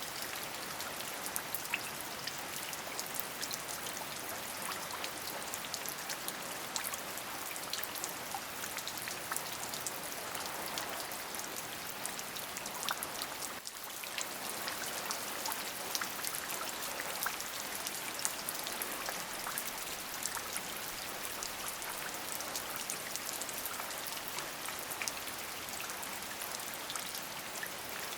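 Steady rain, an even hiss thick with the tiny clicks of countless drops hitting a surface, with a brief dip in level about halfway through.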